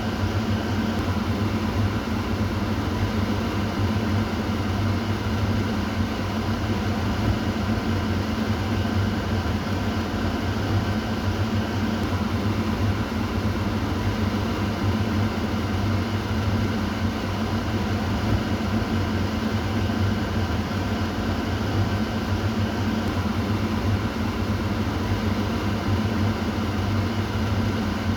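Kitchen exhaust fan running steadily: a low motor hum under an even rush of air.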